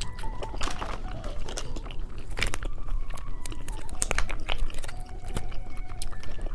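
A person biting and chewing candy close to the microphone, with irregular sharp clicking mouth sounds.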